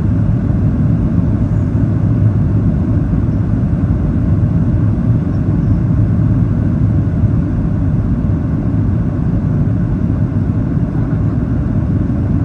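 Steady low rumble inside the cabin of a Boeing 737-800 on final approach: the noise of its CFM56 engines and the airflow over the fuselage, with no distinct knocks or changes.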